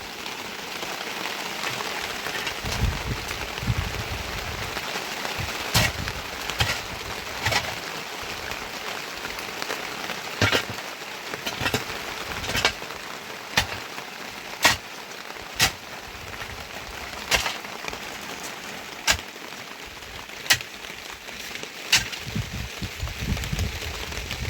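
Heavy rain falling steadily, with loud single drops tapping on a nearby surface about once a second and low rumbles near the start and the end.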